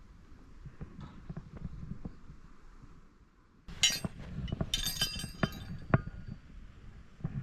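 Metal camping gear clinking and rattling as it is handled: light scattered clicks and knocks, then two short flurries of bright ringing metal clinks about four and five seconds in.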